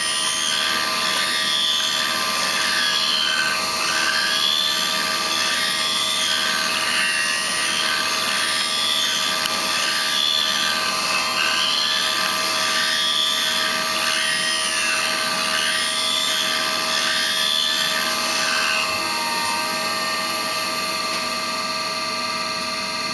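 Hauser jig grinder running: a high-speed grinding spindle's steady whine, with a higher tone sweeping up and down in a regular cycle about every two seconds. Near the end the cycling stops and the whine carries on steadier and a little quieter.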